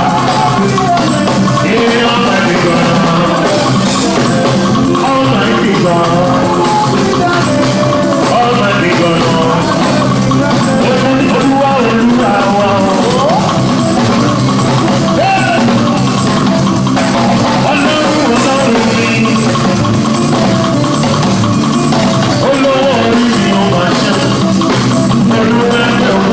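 Live band music with a drum kit and percussion keeping a steady beat under pitched melodic instruments, loud and continuous.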